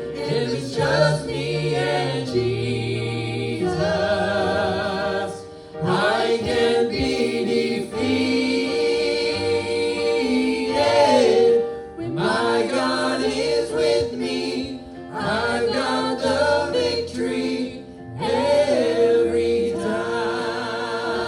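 Several voices singing a gospel song in harmony over a low accompaniment, with long held and sliding notes broken by short pauses between phrases.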